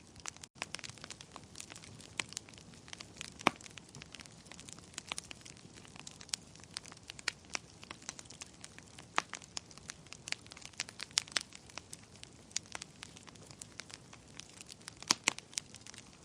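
Wood fire crackling in a fireplace: a steady run of small, irregular pops and snaps over a soft hiss. There is a sharper pop about three and a half seconds in and a quick cluster of loud pops near the end. The sound drops out for an instant about half a second in.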